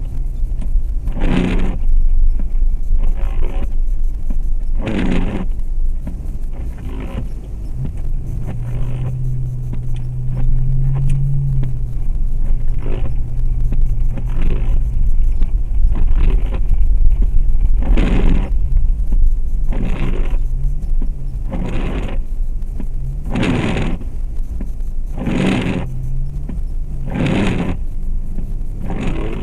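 In-cabin sound of a 2004 Jeep Grand Cherokee's 4.7 L V8 running with a steady low road rumble, the engine note rising and holding for a few seconds near the middle. Windshield wipers sweep across the glass about every two seconds, each pass a short scraping swish.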